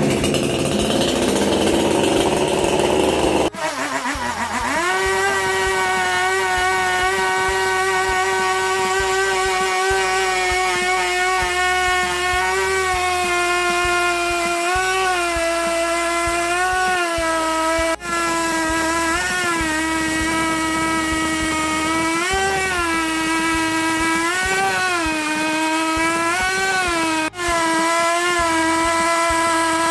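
Power tool motor working into a wood log: after a few seconds of rough noise, a steady whine sets in, its pitch rising briefly every couple of seconds as the load on the cut eases.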